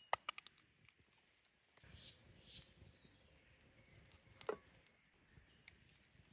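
Faint small-bird chirps, a few short high calls falling in pitch, over a quiet background. Several light clicks come just after the start, and there is one sharper tap about four and a half seconds in.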